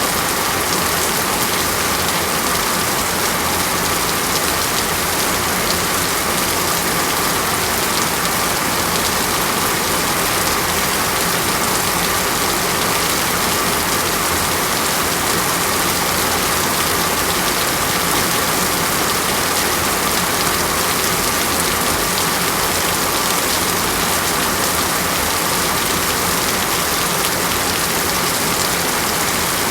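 Steady, even rain falling on a surface, a dense hiss of many drops with no single louder events.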